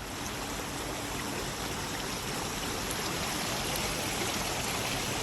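River water flowing, a steady rushing sound that sets in abruptly.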